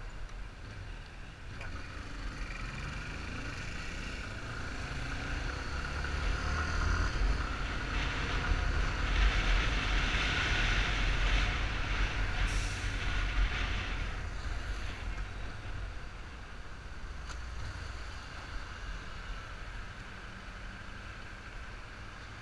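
Yamaha Fazer 250 motorcycle on the move: engine running under wind noise on the microphone, growing louder for several seconds around the middle, then easing off.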